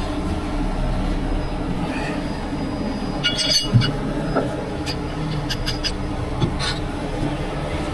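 Truck engine idling steadily, with a short burst of high metallic clinking about three seconds in and a few sharp metal clicks a little later.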